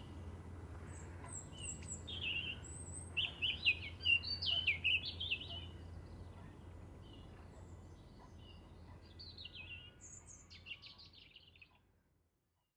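Birds singing and chirping in short, falling trilled phrases, busiest a few seconds in, over a steady low hum; the sound fades out near the end.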